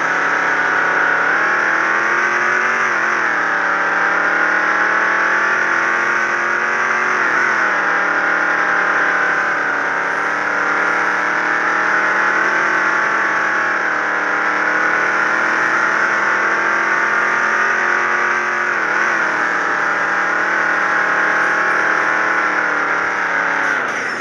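Car engine running steadily under load, its pitch dipping briefly and climbing back a few times.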